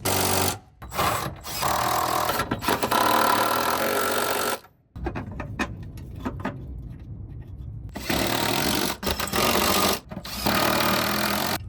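Impact wrench running in several short bursts of a second or two each, with brief pauses between them, rattling as it works the wheel lug nuts.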